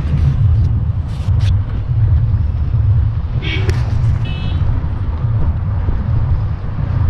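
Steady engine and road rumble inside a moving vehicle's cabin, with a few brief clicks and a short high-pitched tone a little past halfway.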